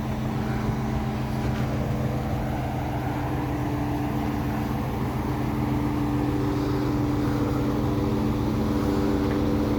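An engine running at a steady speed, a constant low hum that grows slightly louder over the second half.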